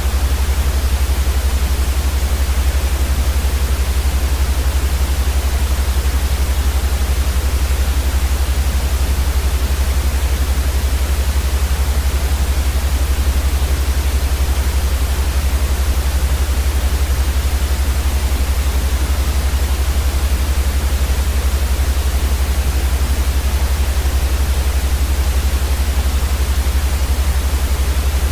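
Steady, unchanging white noise: an even hiss across the whole range, over a strong low rumble that is the loudest part.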